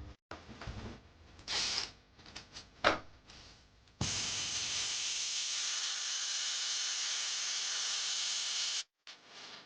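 A few short hissing and scraping noises with sharp clicks, then a steady hiss for about five seconds that cuts off suddenly.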